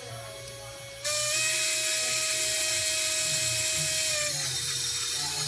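Small brushless motors of a DYS X160 micro FPV quadcopter whining, throttled up sharply about a second in, held, then eased back after about four seconds. The owner blames bad bearings in one or more motors, whose vibration makes the quad drift right.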